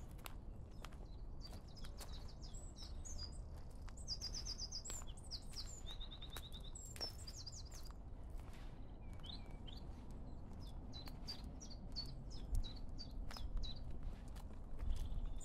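A small songbird singing quick trills and runs of repeated high notes, with a short pause about halfway through before it sings again.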